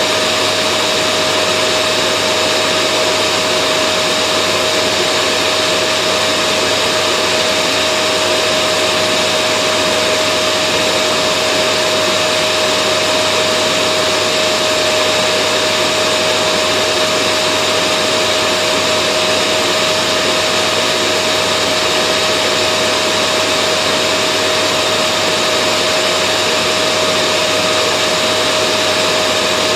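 Vacuum cleaner running steadily: an even rushing noise with a constant whine that does not change.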